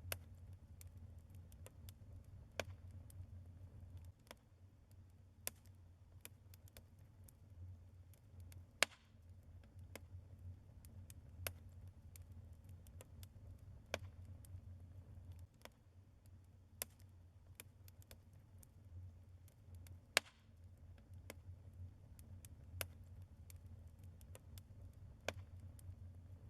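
Wood fire in a fireplace crackling: irregular sharp pops and snaps over a low steady hum, with two louder pops about nine and twenty seconds in.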